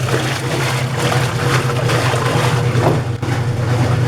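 1987 Brastemp Verona washing machine agitating with water in the tub: a steady motor hum under continuous sloshing and churning. The agitation is strong, with the machine freshly serviced with new oil, a new spring and seal, and an overhauled clutch.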